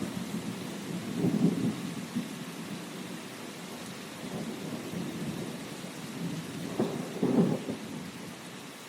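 Steady rain with low rolling thunder, which swells about a second and a half in and again near the end.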